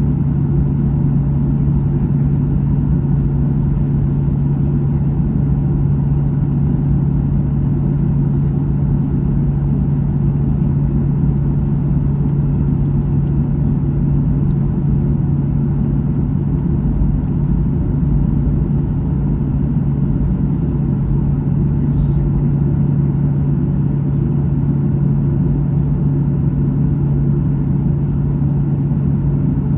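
Steady cabin drone of a Boeing 737-800, heard from inside the cabin: even engine and airflow noise with one strong low hum, unchanging throughout.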